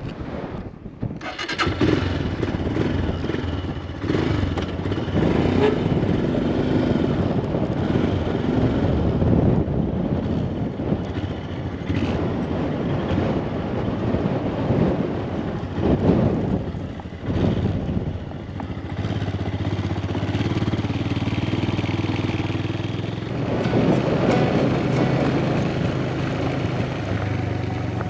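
Motorcycle engine starting about two seconds in, then running steadily as the bike rides.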